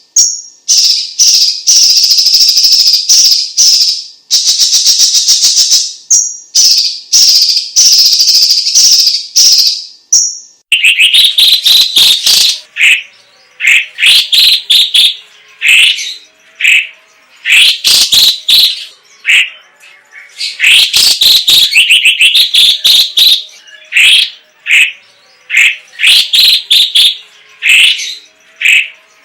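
Cucak cungkok (Chinese leafbird) singing loudly. For about the first ten seconds it gives long, fast buzzing trills in blocks of a second or two, then switches to a string of short, varied high chirps with brief pauses between them.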